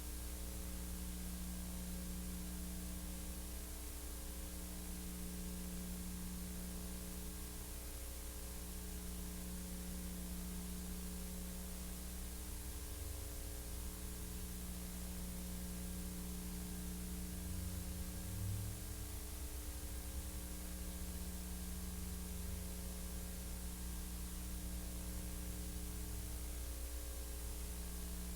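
Steady electrical mains hum with a layer of hiss and static, unchanging throughout, with no other sound on the track.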